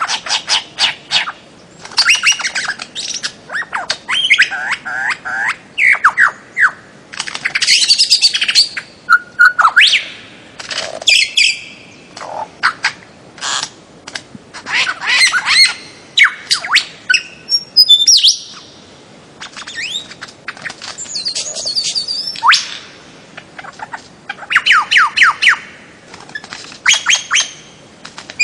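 Bird-of-paradise calling: loud runs of quick, short notes, repeated in phrases of a second or two with brief pauses between them.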